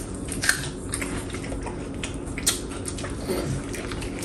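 A person chewing a mouthful of rice, dal and vegetable curry, with a few short clicks, the sharpest about half a second in and again about two and a half seconds in, over a steady low hum.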